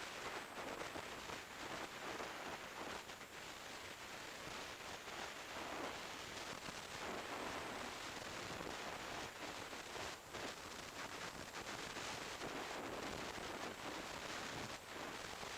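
Wind rushing over the microphone of an action camera on a motorcycle riding at road speed: a steady hiss that flutters with gusts, with no clear engine note standing out.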